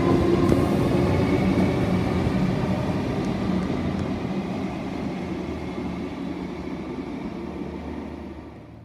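Comeng electric suburban train pulling out and receding, its wheel-and-motor rumble with a steady hum fading gradually, then falling away sharply near the end.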